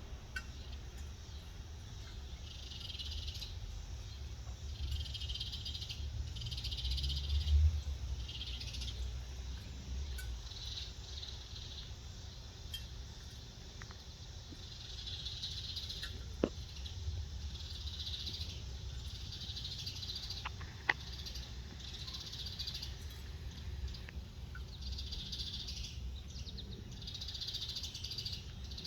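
Outdoor ambience with a chorus of short, high, buzzy animal calls repeating every second or two over a steady low rumble, broken by two sharp clicks.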